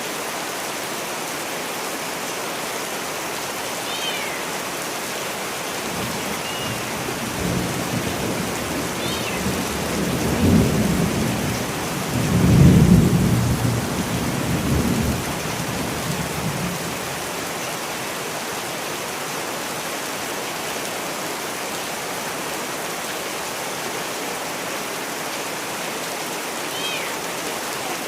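Steady rain falling, with a roll of thunder that builds about six seconds in, peaks twice near the middle and dies away by about seventeen seconds.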